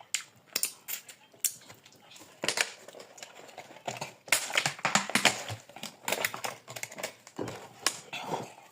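Someone eating okra soup and stew close to the microphone: a fast, irregular string of mouth clicks and smacks.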